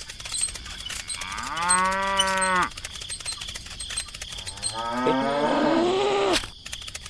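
Cow mooing twice, two long calls a couple of seconds apart, over a fast, steady clicking.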